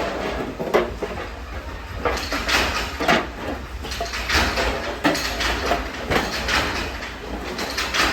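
Steel parts being handled in a metal workshop: irregular clanks and scrapes of metal on metal, some with a short ring, over a steady low machine hum.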